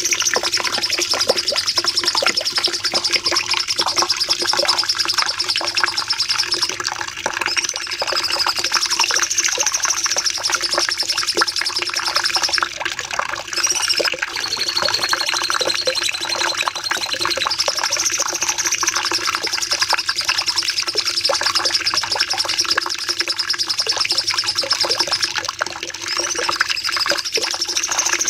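Cucak cungkok songbird singing long, unbroken runs of high, rapid trilling chatter, with a short pause about halfway through.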